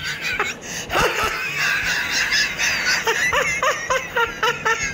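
A person laughing, breaking into a quick run of short "ha" sounds, about four a second, in the second half.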